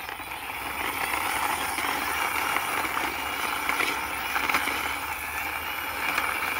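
A toy car's wheels rolling and rattling as it is pushed along by hand: a steady rough rolling noise with small scattered ticks.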